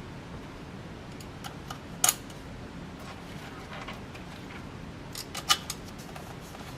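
A few sharp clicks and light clinks of small hard parts being handled: one about two seconds in and a quick cluster near the end, over a steady low hiss.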